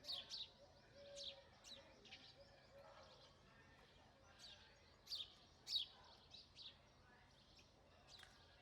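House sparrow chirps: short, quick, downward-sweeping chirps at irregular intervals, with two louder chirps just past the middle.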